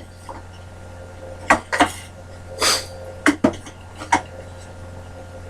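Several short sharp clicks and clinks of hard workshop parts being handled, with one brief scrape, over a steady low hum.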